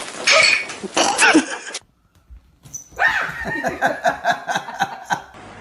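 A dog barking and yapping in quick repeated calls, with a short break partway through.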